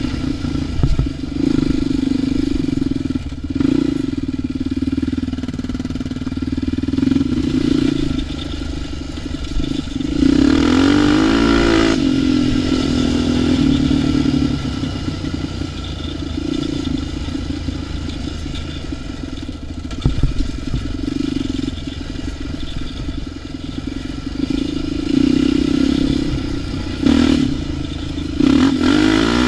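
ATV engine running under throttle, revs rising and falling as it rides, with a sharp climb in revs about ten seconds in and again near the end. A few short knocks come through as well.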